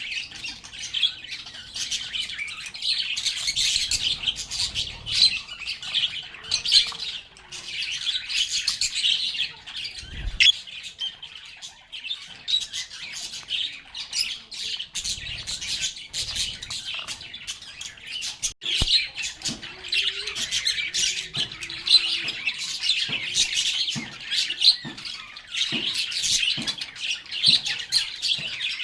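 A group of lovebirds chattering: dense, rapid high chirps and squawks that come in waves with brief lulls between, and a couple of short knocks.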